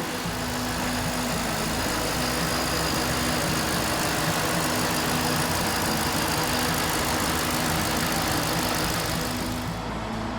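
2007 Ford Mustang GT500's 5.4-litre supercharged V8 running steadily at an even pitch.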